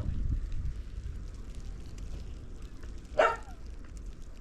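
A dog barks once about three seconds in, over a steady low rumble with faint crackling.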